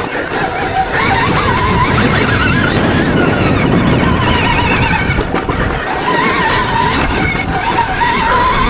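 Stark Varg Gen 2 electric motocross bike's motor whining, its pitch wavering up and down with the throttle over a steady rushing noise.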